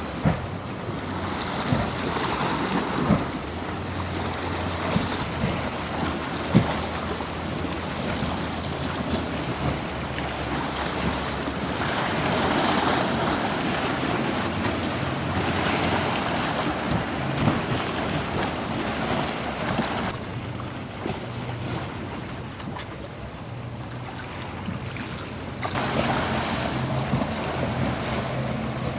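Waves breaking and wind buffeting the microphone, under the steady hum of boat engines, which grows louder near the end.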